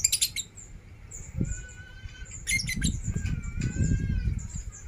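A caged contest songbird singing: sharp high chirps at the start and again about two and a half seconds in, between short whistled notes that glide slightly. A low rumble runs under the song in the second half.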